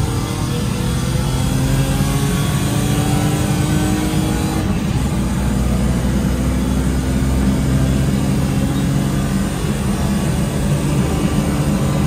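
BMW E36's engine heard from inside the cabin while lapping at speed, its pitch climbing slowly as it pulls under load.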